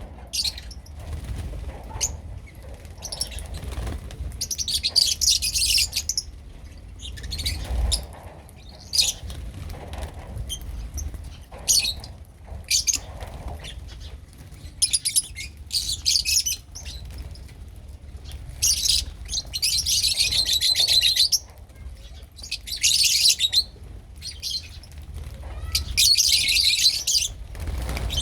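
A group of lovebirds chattering in repeated bursts of shrill, rapid chirping, each burst lasting a second or two, over a low rumble.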